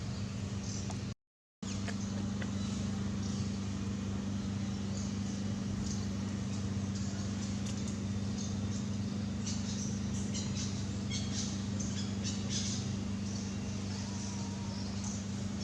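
A steady low mechanical hum, like a running motor, with scattered faint short high chirps or ticks over it, most of them in the second half. The audio cuts out completely for about half a second just after the start.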